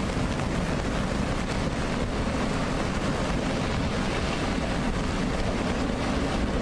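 Floodwater rushing, a steady loud roar with no let-up.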